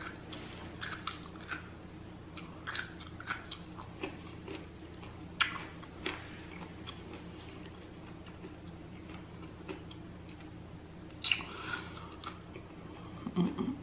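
Close-up mouth sounds of a person biting and chewing an asparagus spear: scattered crisp clicks and smacks, thinning out in the middle and picking up again about eleven seconds in. A low steady hum runs beneath.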